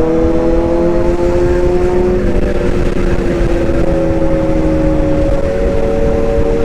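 Excavator running: a steady low engine rumble with whining tones that slowly slide in pitch and change about halfway through as the machine works.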